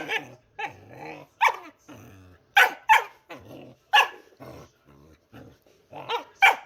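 A pet dog barking in short, loud barks, about seven of them, with lower, drawn-out growly vocal sounds between the barks.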